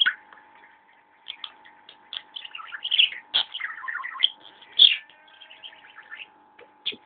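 Budgerigar chattering: a quick run of short chirps and squeaky notes with brief pauses, starting about a second in.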